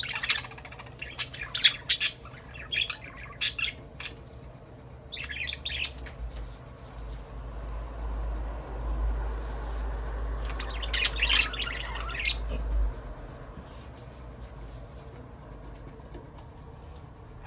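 Budgerigars chirping and squawking in short, sharp calls, busiest in the first few seconds, with another burst about five seconds in and again around eleven seconds. A low rumble runs underneath through the middle, from about six to thirteen seconds.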